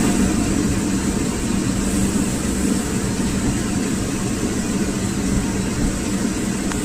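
A motor running steadily with a low rumble and a steady hum.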